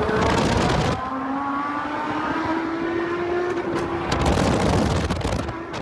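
Car engine accelerating hard in a race launch, its pitch rising, dropping about a second in and then climbing slowly again. Rushes of wind and road noise sweep over it near the start and again about four seconds in.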